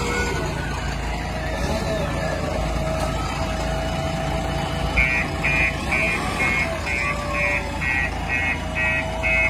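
Heavy diesel machinery running, a backhoe loader and dump truck at work, with a wavering whine over the engine rumble. About halfway through a reversing alarm starts beeping about three times a second.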